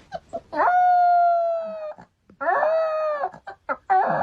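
A dog howling: one long held howl, falling slightly in pitch, then a second shorter howl and a few short calls near the end.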